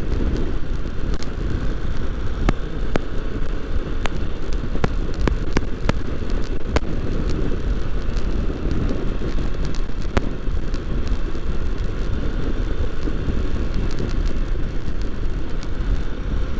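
Royal Enfield Himalayan single-cylinder motorcycle cruising on the road, engine running steadily under heavy wind rush over the microphone, with scattered sharp clicks.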